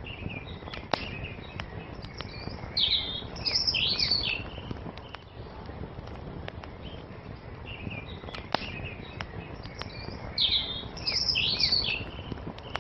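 Wood fire crackling: scattered sharp pops over a steady low hiss. A songbird sings a quick chirping phrase twice, about three seconds in and again about ten seconds in.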